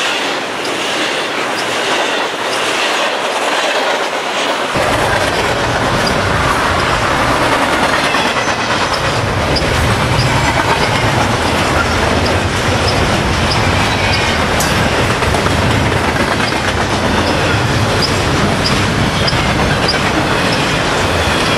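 Double-stack intermodal well cars rolling past at track speed: a steady rumble of steel wheels on rail with rhythmic clickety-clack. A deeper low rumble joins about five seconds in.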